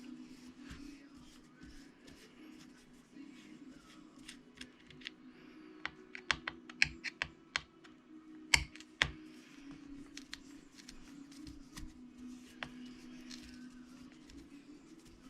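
Small sharp clicks and taps of a hand screwdriver working small screws and parts of an RC truck's differential housing, coming thickest about six to nine seconds in, the sharpest near eight and a half seconds. A steady low hum runs underneath.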